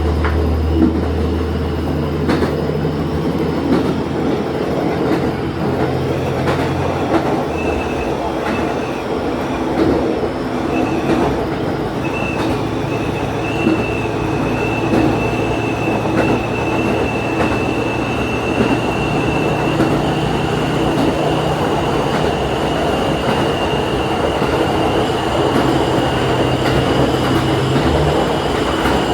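Diesel railcar running along the line, heard from the cab: a steady rumble of wheels on track with the engine's low note, which changes pitch about seven seconds in. A thin high whine sets in about twelve seconds in and holds to the end.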